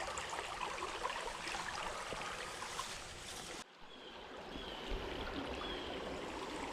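Small creek's water running and babbling over stones, a steady rushing hiss. It cuts out abruptly about three and a half seconds in and resumes a moment later.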